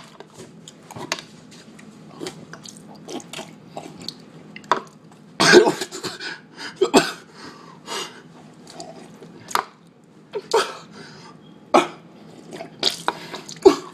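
Someone eating cereal with milk from a bowl with a spoon: irregular spoon clinks, slurps and mouth sounds, a few of them louder.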